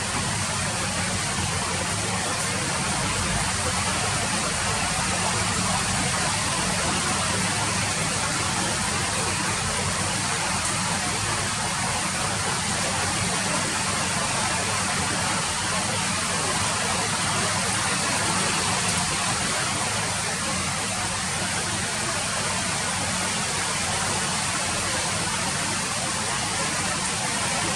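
Rain falling steadily, an even wash of drops with no change in strength.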